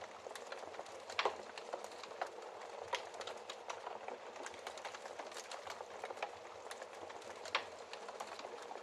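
Wood fire crackling in a fireplace: a steady hiss full of small irregular snaps, with two louder pops, one about a second in and one near the end.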